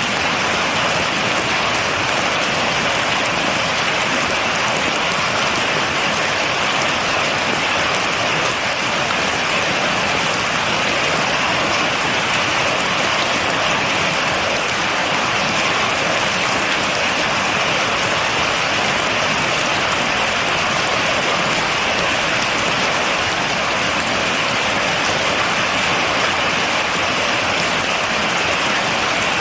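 Steady rain falling, an even hiss of drops with fine pattering ticks, no thunder.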